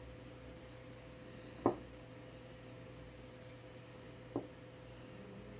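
Two short, light knocks of handling, about two and a half seconds apart, the second fainter, over a steady faint hum.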